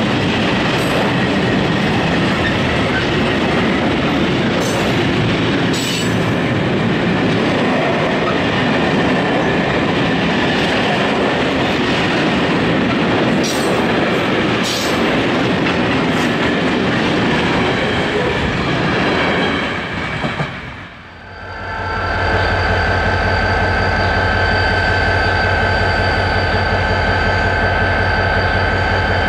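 Freight train wagons rolling past close by: a steady rumble of steel wheels on rail with clicks over the rail joints and some wheel squeal. About twenty seconds in it fades out and gives way to a steady engine idling hum with a held whine.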